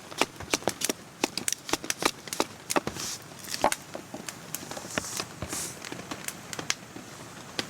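Small campfire crackling, with many sharp irregular pops several times a second and brief hisses about three and five and a half seconds in.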